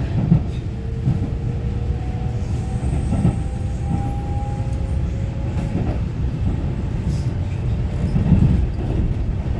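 Inside a Taiwan Railway EMU900-series electric commuter train (EMU923) running along the line: a steady low rumble of wheels on rail, with a few thumps from the track. A faint whine from the traction motors rises slightly in pitch.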